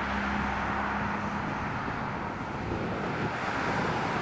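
Road vehicle passing, with steady tyre and engine noise; a low engine hum drops away about a second and a half in.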